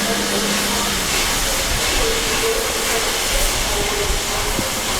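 Steam locomotive LNER A1 Pacific 60163 'Tornado' letting off steam with a steady, loud hiss.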